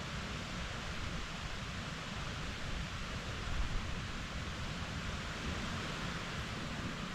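Strong wind rushing through the woods, a steady hiss with a gusting low rumble of wind on the microphone, swelling briefly about three and a half seconds in.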